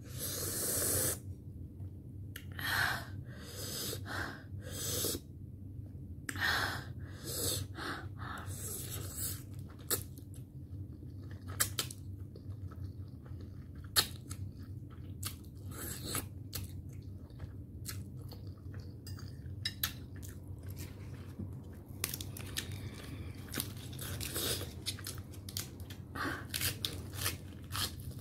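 Close-miked eating sounds: a mouth chewing spicy ramen noodles. There are several longer wet noisy mouth sounds in the first ten seconds, then a steady run of quick sharp wet clicks and smacks.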